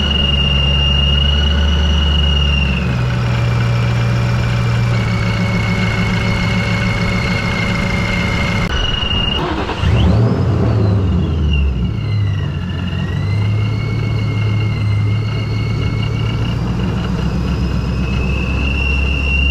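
Procharger supercharger on a 2004 Mach 1 Mustang's 4.6-litre V8, whining high over the engine's hum while driving. The whine drops in pitch a few seconds in. About halfway it sweeps sharply up as the engine revs, falls away, then climbs back up near the end.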